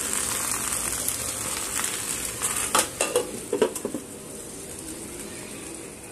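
Okra and potato slices sizzling in hot mustard oil in an iron kadhai. A few sharp clinks come around the three-second mark as the glass lid goes on, after which the sizzle is quieter under the lid.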